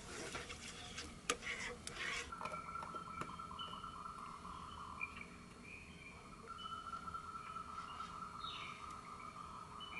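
Animal calls: a steady trilling chorus in two long stretches, with short chirps above it and a few sharp clicks in the first two seconds.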